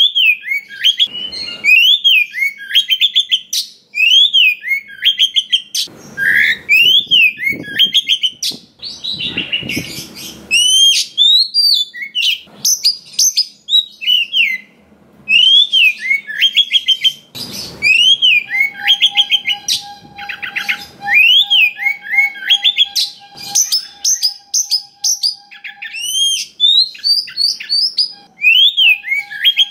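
Oriental magpie-robin singing a long, varied song: loud, repeated rising-and-falling whistled notes broken by quick chattering runs of many different phrases.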